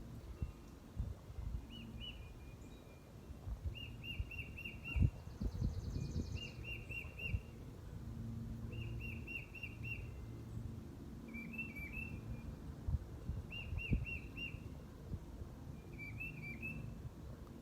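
A songbird singing short phrases of four or five quick, repeated whistled notes, one phrase every second or two, with a brief higher buzzy trill from another bird about six seconds in. Scattered low thumps and rumble sit underneath.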